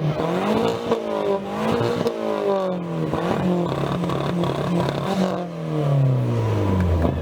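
Car engine revved through its exhaust, rising and falling several times, with a last rev that falls away slowly near the end.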